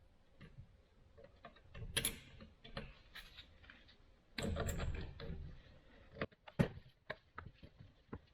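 Scattered metal clicks and knocks of hand tools working on a Record No. 6 bench vise while its jaw plate is taken off, with a denser scraping rattle a little past halfway and one sharp click toward the end.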